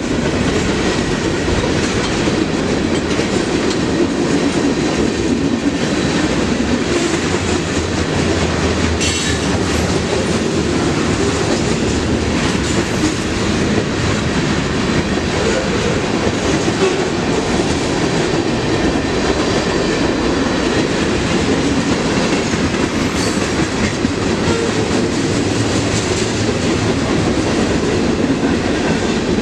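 Freight train cars rolling past, a steady rumble of steel wheels on the rails with clickety-clack over the rail joints.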